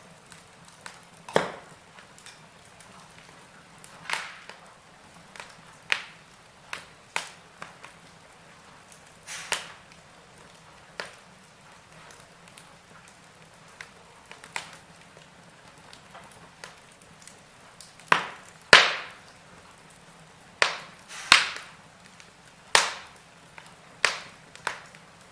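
Wood fire in a fireplace crackling: irregular sharp pops and snaps over a faint steady hiss, coming more often and louder in the second half.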